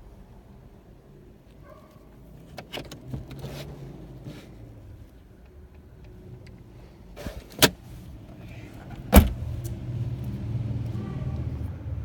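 Sharp clicks and knocks around a car, the loudest thump about nine seconds in, followed by the car's engine running with a low steady rumble.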